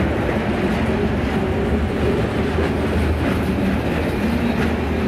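A train rolling past, giving a steady, loud noise of wheels on rail with a strong low hum underneath.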